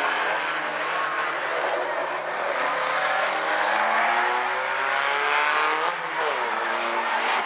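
Several small compact race cars running laps on a short oval track, their engine notes overlapping and rising and falling as they lift and accelerate through the turns. About six seconds in the sound briefly dips, then an engine note climbs sharply as a car accelerates past.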